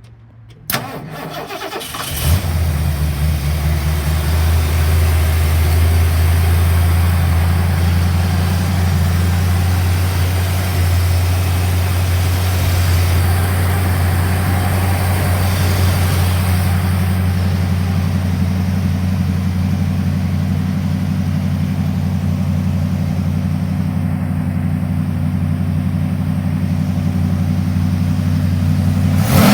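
Ford 460 V8 with custom exhaust in a 1946 Mercury M68 truck being cranked by the starter, catching about two seconds in, then idling steadily with a low exhaust note.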